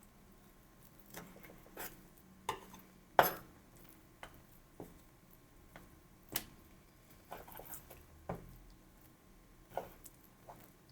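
Kitchen handling sounds: scattered light knocks and clicks of utensils and dishes at irregular spacing, roughly one a second, the loudest about three seconds in.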